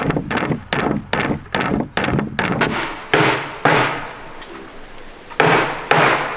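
Repeated blows of a tool striking wood, fast at about three a second, then a few heavier, slower strikes with a short ringing decay, a brief lull, and two more strikes near the end.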